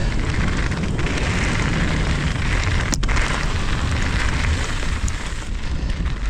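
Strong headwind blowing across the microphone of a mountain biker's action camera: a loud, steady low rumble, with a brief click about three seconds in.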